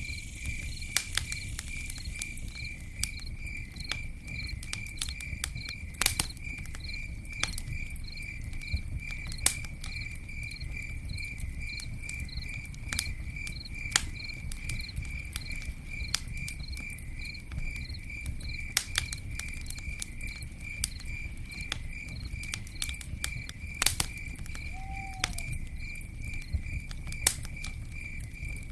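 Campfire burning, with irregular crackles and sharp pops over a low rumble. A cricket chirps throughout in a steady, even pulse, a few chirps a second.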